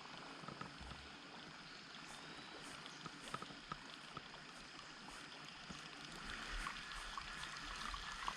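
Faint running river water around a kayak, with scattered small ticks and knocks, getting a little louder towards the end.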